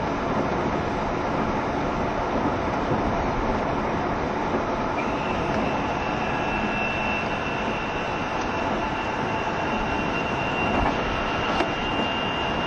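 JR Shikoku 7200 series electric multiple unit running at speed, heard from inside the carriage: steady wheel and track rumble. A thin, steady high whine comes in about five seconds in and holds.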